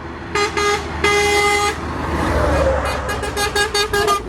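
Truck horn tooting as a lorry goes by: two quick blasts, one longer held blast, then a rapid string of about eight short toots. The lorry's engine and tyre noise swells in the middle.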